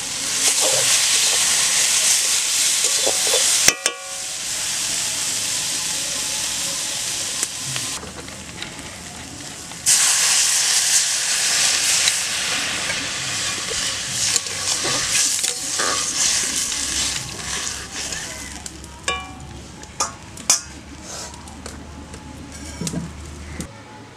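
Masala paste, potatoes and fig pieces sizzling in a hot iron karahi as they are stirred with a metal spatula. About ten seconds in a fresh, loud sizzle starts suddenly as water goes into the hot pan and comes to a boil, then fades, with a few sharp clicks of the spatula against the pan near the end.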